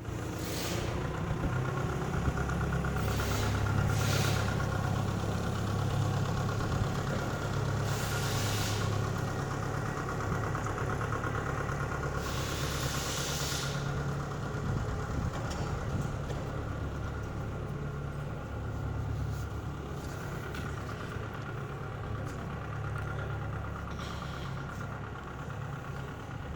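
Mini crawler tractor's engine running steadily, with several short rushes of hiss over it.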